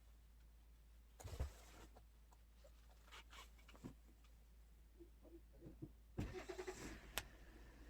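Faint, intermittent handling noises of fabric and tools being worked on a tailoring table: brief rustles a few times, with a sharp click near the end.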